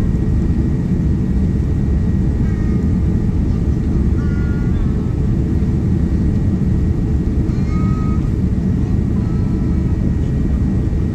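Steady low roar of a Boeing 787-9 Dreamliner heard from inside the passenger cabin during descent: engine and airflow noise, even in level throughout.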